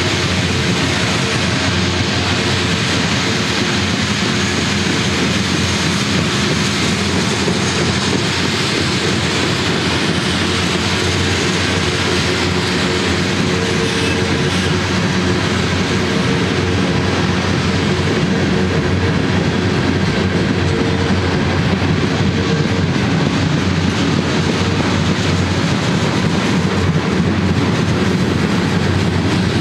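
Freight cars of a manifest train rolling past at speed: a steady rumble and clatter of steel wheels on the rails, with a faint steady ringing tone underneath. It grows slightly louder near the end.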